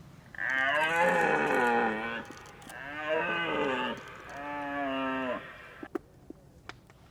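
Red deer stag roaring in the rut: three deep bellowing roars in quick succession, the first the longest and loudest, each following one softer.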